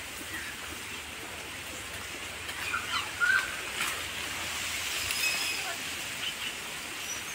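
Rural outdoor ambience with a few short bird chirps: a cluster about three seconds in, and thin higher calls around five seconds in.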